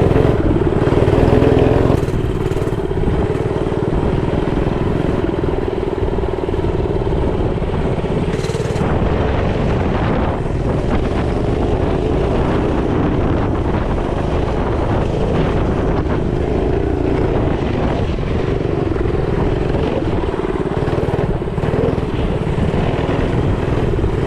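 Small mini bike engine running steadily while being ridden, a little louder for the first two seconds before settling to an even drone.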